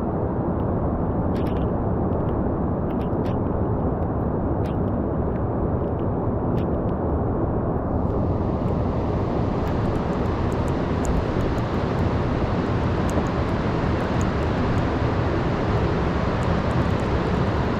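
Heavy storm surf and wind making a steady low roar, with the hissing wash getting brighter about eight seconds in.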